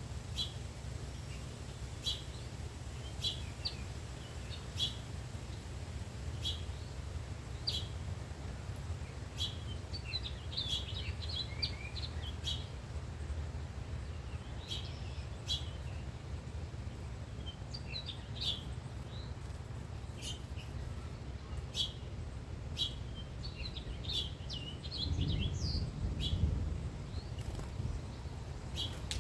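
Songbirds calling: short, sharp, high chip notes every second or two, with a few quick twittering runs. Beneath them is a steady low rumble that swells near the end.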